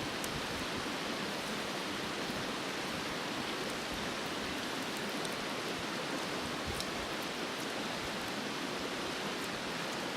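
Turkey tail mushrooms sizzling steadily in a pan of simmering beer, a constant hiss with a few faint crackles.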